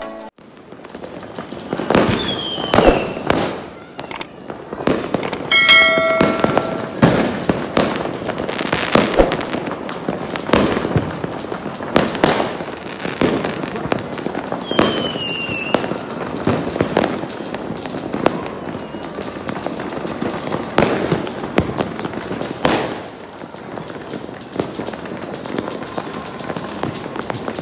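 Many fireworks going off in a dense, continuous run of bangs and crackles, with a few short falling whistles from shells, one near the start and one about halfway.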